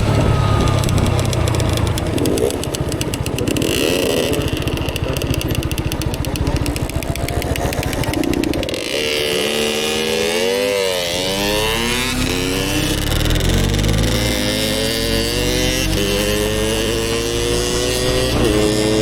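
Motorcycle engine running on the move. From about halfway through, its pitch climbs steadily, dropping back twice near the end as the bike shifts up through the gears.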